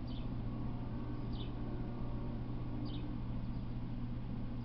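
A bird giving short, high chirps that slide downward, three times about a second and a half apart, over a steady low hum.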